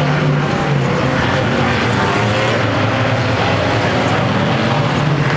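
Engines of several unlimited banger-racing cars running hard together, a loud, steady mix of engine notes at slightly shifting pitches.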